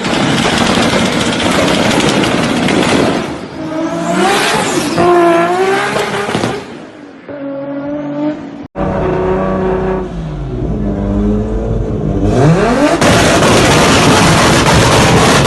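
Toyota Supra engines revving and accelerating hard through several edited clips, the revs swinging up and down, with a sharp cut to a new clip partway through. Near the end the revs climb quickly into a loud run at full throttle.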